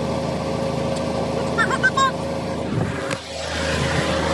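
Diesel winch truck's engine running steadily, with a few short squeaks about halfway through.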